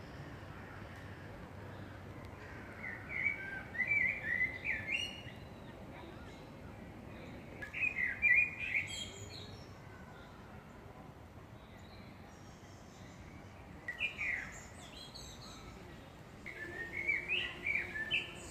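A songbird singing: four bursts of quick, chirping notes, separated by pauses of several seconds, over a steady background hiss.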